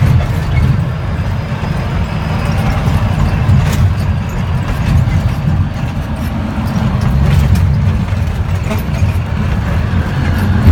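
Diesel engine of a Freightliner dump truck running with a steady low rumble.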